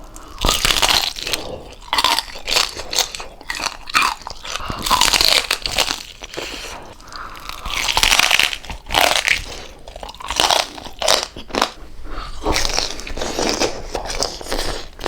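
Close-up crunching and chewing of crispy deep-fried pork jowl: repeated loud, irregular crackly bites.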